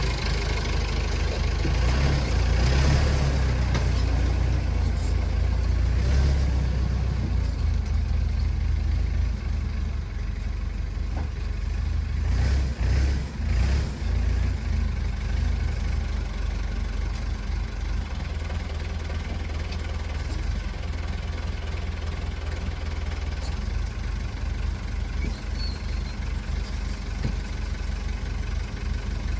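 Massey Ferguson tractor backhoe's engine running, louder and rougher about two to seven seconds in and again around twelve to fourteen seconds, then settling into a steady run.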